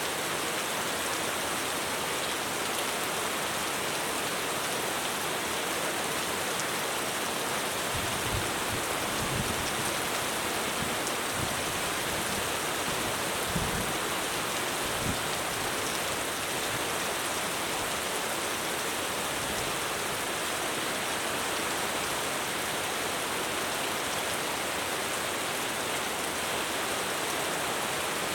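Heavy rain falling steadily on a roof, a dense even hiss, with a few brief low thumps between about a third and two thirds of the way through.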